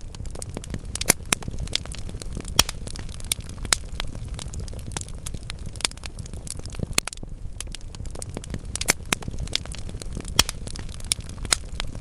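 Wood fire in a fireplace crackling, with irregular sharp pops and snaps from the burning logs over a soft steady low rumble of the flames.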